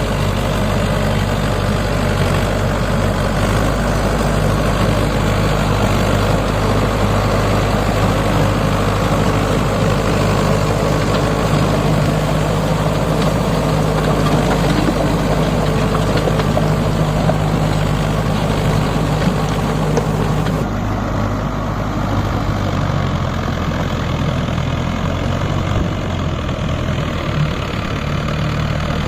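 Mahindra 555 tractor's diesel engine running steadily under work. Its sound thins out about two-thirds of the way through.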